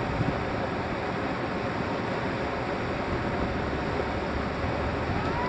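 Whitewater river rapids rushing in a steady, even roar of water.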